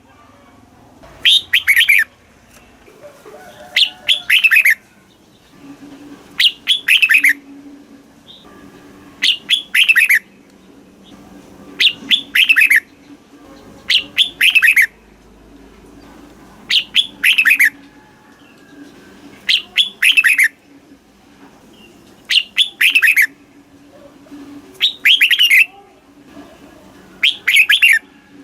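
Red-whiskered bulbul singing, repeating the same short song phrase about every two and a half seconds. Each phrase is a quick run of clear whistled notes that fall in pitch.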